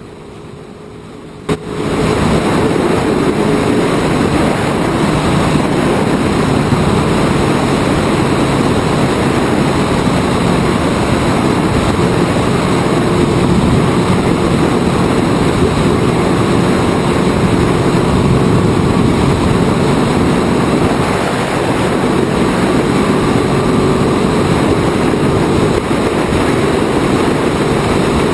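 Older-generation Indy car's V8 engine running at part throttle, heard from on board amid heavy wind and road noise. It starts suddenly about two seconds in, after a short quieter stretch and a click, then holds steady.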